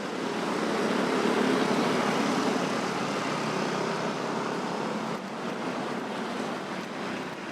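Busy road traffic of motorcycles, cars and trucks passing: a steady mix of engine and tyre noise that swells up over the first second.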